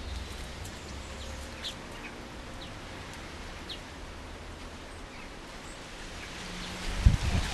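Small garden birds giving short, high chirps every second or so over a steady hiss. A loud low rumble comes in near the end.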